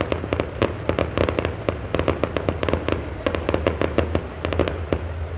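Fireworks finale: a rapid, dense barrage of bangs and crackling, several reports a second, thinning out near the end.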